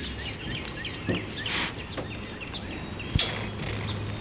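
Birds chirping, a quick run of short falling chirps, with a brief rustle about a second and a half in and a sharp click and rustle about three seconds in.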